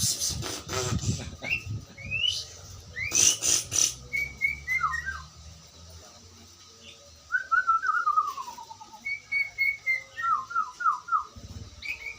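A sirtu songbird singing: phrases of clear, whistled notes sliding down in pitch, broken by harsh, rapid chattering bursts in the first second and again about three seconds in.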